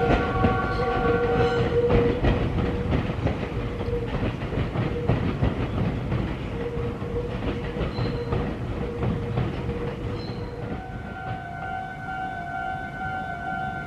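Meitetsu electric train running past on the tracks, its wheels clattering over rail joints and points in a steady rumble that slowly fades. A horn-like pitched tone sounds during the first couple of seconds. About eleven seconds in, a steady pitched warning tone starts and keeps going.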